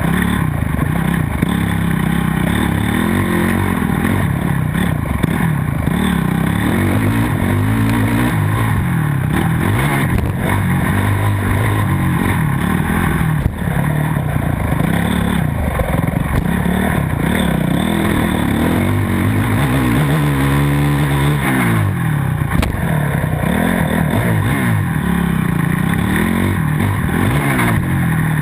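Motocross bike engine under hard racing throttle, its pitch climbing and dropping over and over as it revs, shifts and backs off.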